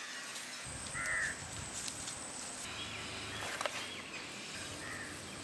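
A bird gives a short call about a second in and a fainter one near the end, over faint outdoor ambience with a low rumble.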